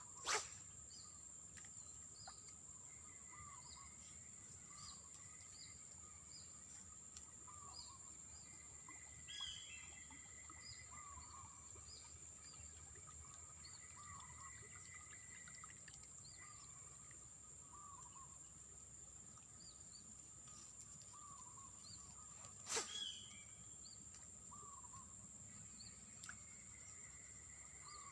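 Faint outdoor ambience: a steady high-pitched insect drone, with a bird repeating a short chirping call every second or two. Two sharp clicks, one just after the start and one about 23 seconds in.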